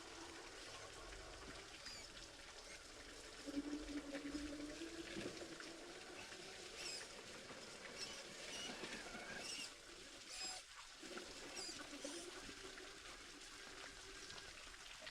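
Creek water trickling and splashing over a small waterfall, with a faint low hum for a second or so about four seconds in.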